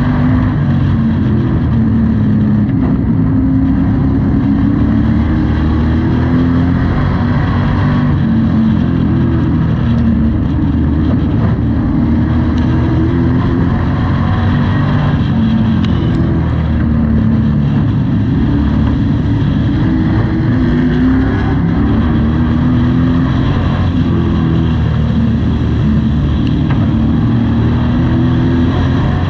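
Pro Truck race engine at racing speed, heard from inside the cockpit, its pitch rising and falling every few seconds as the driver gets off and back on the throttle through the corners of a short oval.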